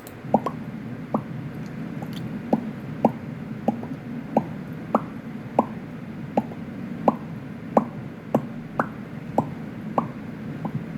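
Human mouth sound effect: a steady string of water-drop 'bloop' pops made with the mouth, about one and a half a second, each sliding quickly up in pitch.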